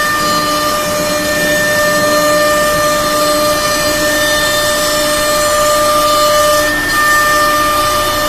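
CNC router spindle running with a loud, steady whine of several pitches over a noisy hiss, its pitch pattern briefly changing about seven seconds in.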